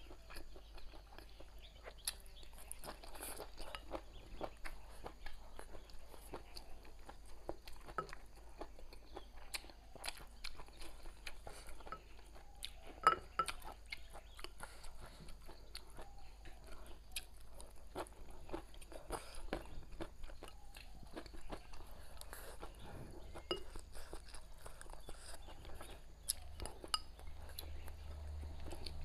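Close-up chewing and crunching as a person eats stir-fried chilli peppers with rice, with wet mouth sounds and many short sharp clicks. One louder click comes near the middle.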